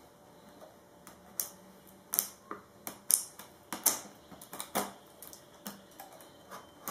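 Irregular sharp clicks and light crackles, about a dozen, as the plastic seal on a cardboard MacBook Pro box is picked and worked open.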